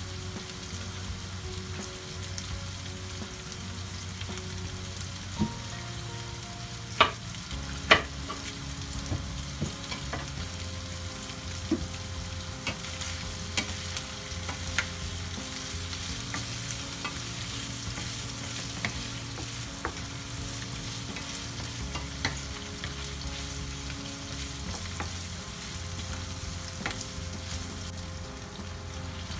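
Chicken livers sizzling as they fry in a frying pan, with a wooden spatula stirring and scraping them and knocking sharply against the pan now and then. The loudest knocks come about seven and eight seconds in.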